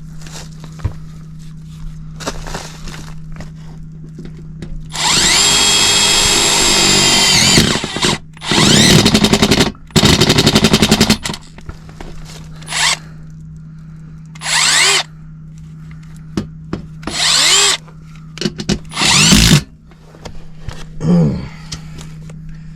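Small cordless drill running in about seven bursts. The first burst runs about two and a half seconds and the rest are shorter, several of them starting with a rising whine as the motor spins up.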